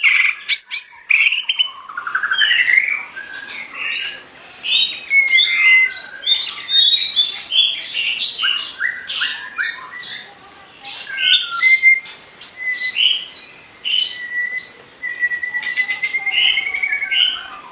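A murai songbird (Copsychus) singing continuously, a fast, varied song of clear whistles, rising slurs and rapid chattering notes, with a longer trilled whistle about fifteen seconds in.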